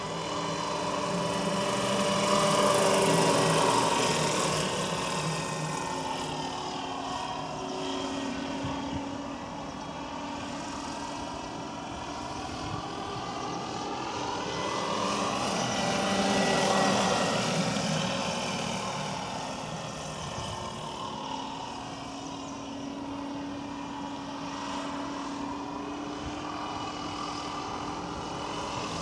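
700-size RC MD 500E scale helicopter with a five-blade main rotor flying, its rotor noise mixed with a sound module's turbine sound. It grows louder twice as it passes close, about three seconds in and again near the middle, with the pitch bending up and then down on each pass.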